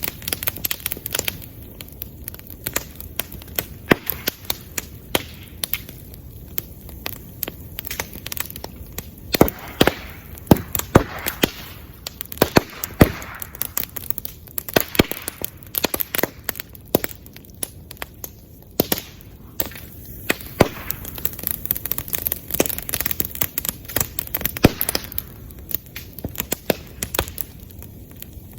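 Bamboo bonfire burning: a steady crackle with frequent irregular sharp pops and cracks as bamboo bursts in the flames.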